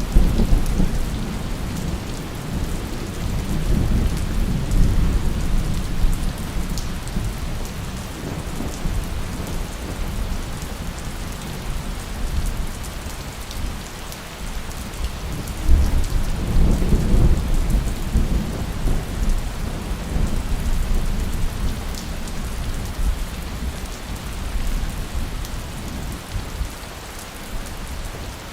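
Steady heavy rain with rolling thunder: a rumble dies away over the first few seconds and another swells up about sixteen seconds in.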